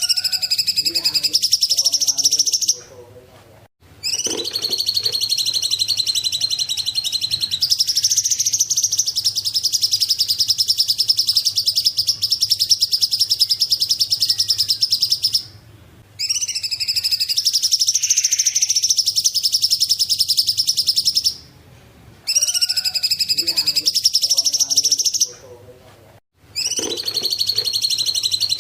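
Cungkok songbird singing long, rapid, buzzy trills, five phrases of a few seconds up to about ten seconds, with short pauses between them.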